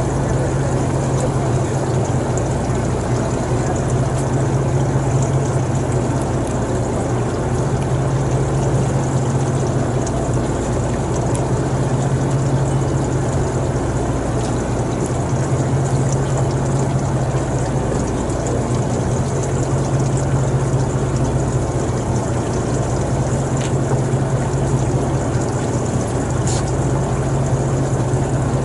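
A steady engine drone with a constant low hum under a rushing, water-like noise, unchanging throughout.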